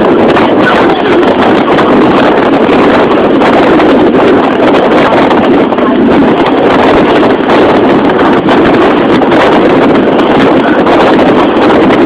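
Loud, steady wind rushing over the microphone on a moving boat, an even roar without a distinct engine note.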